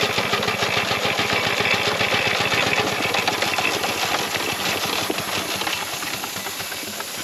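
Single-cylinder steam engine of a 4-inch scale Burrell traction engine running, with a fast, even beat that gets gradually quieter over the last couple of seconds.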